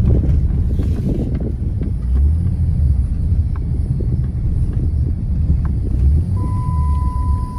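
Dodge Challenger's 3.5-litre V6 running hard under throttle with a deep rumble, the revs rising and falling. A steady high beep comes in near the end.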